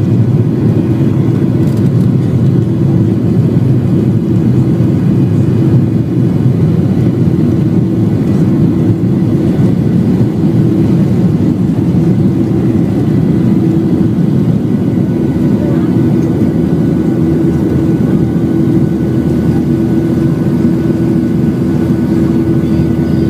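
Boeing 737-8's CFM LEAP-1B jet engines running loud and steady, heard inside the passenger cabin: a dense low rumble with a constant hum over it.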